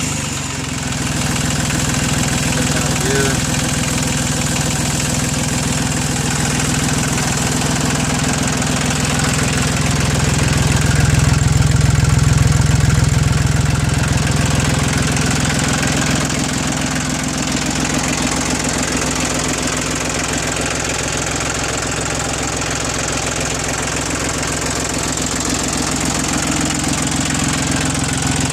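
Iseki TU1700 compact tractor's three-cylinder diesel engine idling steadily and smoothly, a little louder for a few seconds around the middle.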